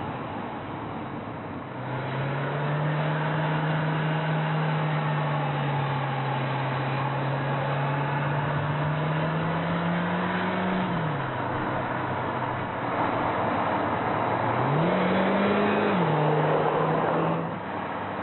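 Renault Clio RS's turbocharged four-cylinder engine pulling under load, its note coming in about two seconds in and climbing slowly before dropping sharply at an upshift. Near the end it revs up quickly and drops again at a second upshift, over a rush of road noise.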